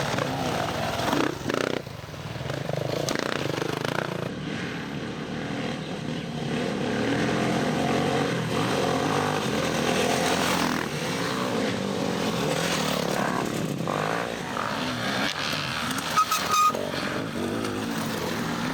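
Dirt bike engine revving up and down as it is ridden along a single trail, with a couple of brief knocks.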